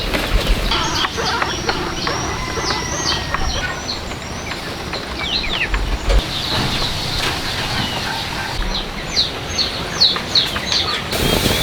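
Birds chirping: many short, quick, falling chirps over a steady rustling background noise.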